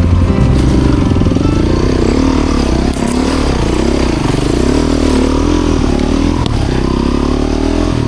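Motorcycle engine running under a varying throttle, its pitch rising and falling unevenly every second or so.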